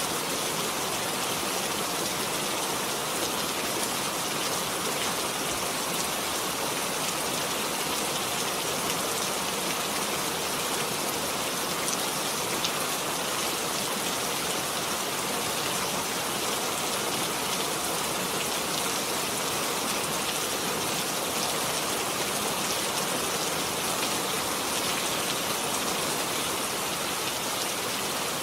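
Steady rainfall, a dense even hiss with many small drops pattering on a surface.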